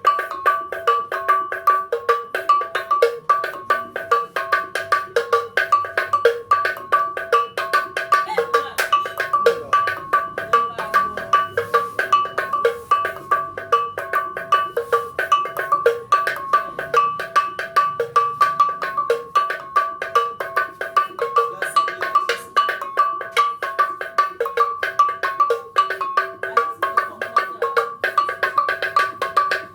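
Traditional Mbam metal bells struck with a stick in a steady, fast rhythm of about three strokes a second, ringing and alternating between two or more pitches.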